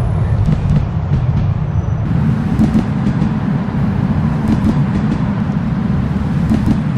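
Chemins de fer de Provence AMP 800 diesel railcar running along the metre-gauge line, heard aboard: a steady low rumble of engine and wheels, with a few light clicks. The rumble grows a little fuller about two seconds in.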